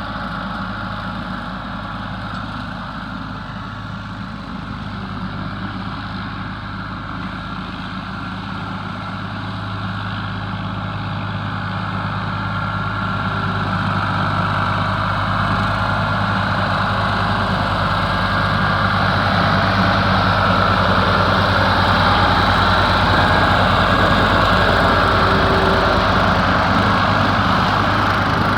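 Ford 4000 three-cylinder diesel tractor engine running steadily while driving a seven-foot bush hog rotary cutter through brush. It grows louder from about a third of the way in and stays louder to the end.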